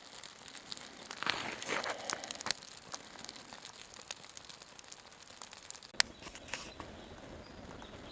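Wood fire crackling with irregular snaps and crackles as a Scandinavian candle, a split log lit from its inner notches, catches alight; one sharp pop about six seconds in.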